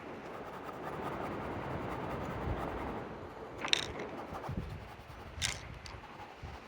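Scratchy strokes of a drawing tool on sketchbook paper, with two sharp clicks, one about four seconds in and another about a second and a half later.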